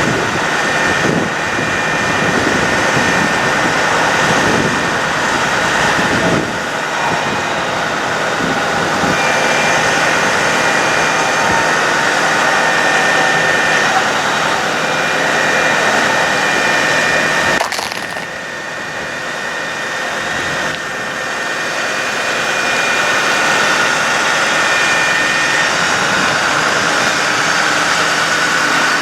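Ford F-550 bucket truck engine running with the PTO engaged to drive the boom's hydraulics, a steady mechanical noise with a faint high whine that comes and goes. The level dips briefly about eighteen seconds in.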